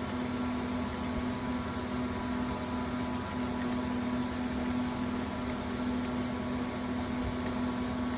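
Steady machine hum with hiss, a low tone held under it, and no distinct key clicks.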